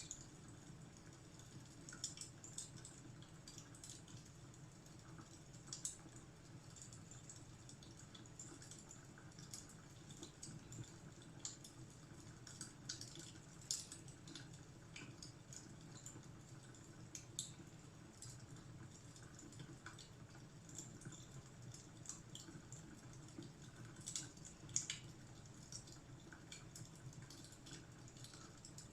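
Wood fire crackling faintly: irregular small pops and snaps over a soft, steady low rumble.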